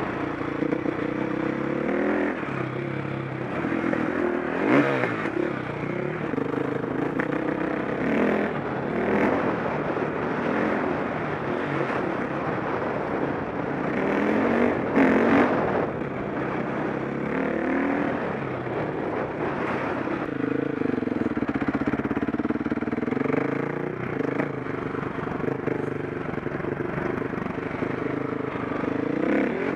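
KTM 525 SX four-stroke single-cylinder motocross engine, ridden on track, its revs rising and falling again and again as the throttle opens and closes, with scattered knocks and clatter.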